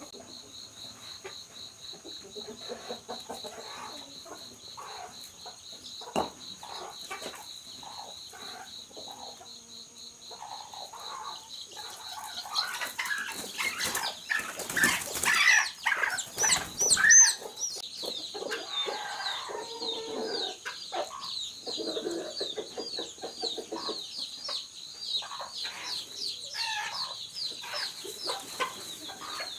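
Chickens clucking, with a louder burst of squawking and wing flapping about halfway through. A steady high-pitched trill runs underneath.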